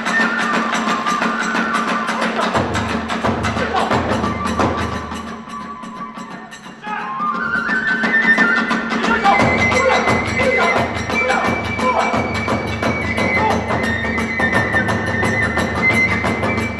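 Kagura hayashi ensemble playing: a bamboo flute over taiko drums and rapidly struck hand cymbals. The music thins out briefly near the middle, then the flute climbs in a rising run and the full ensemble comes back in.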